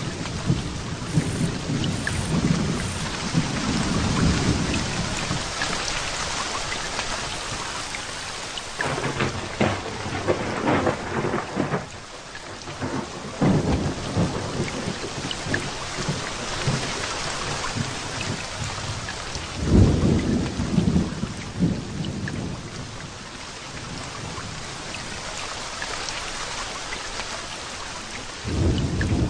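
Heavy rain falling steadily with thunder rumbling repeatedly through it, including a sharper crackling thunderclap about ten seconds in and a loud rumble about twenty seconds in.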